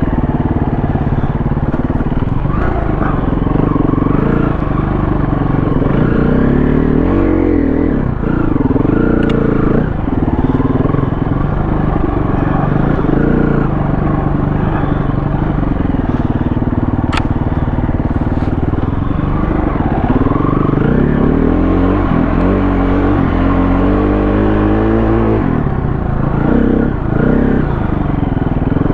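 KTM 350 four-stroke single-cylinder dirt bike engine being ridden, its revs rising and falling again and again with throttle and gear changes.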